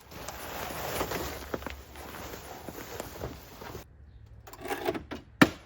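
Footsteps and rustling while a car cover is pulled off. After an abrupt break there are a few knocks and one sharp clack near the end.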